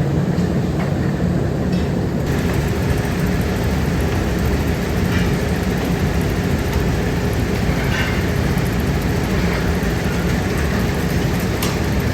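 Steady loud machinery rumble, with a few faint clinks over it.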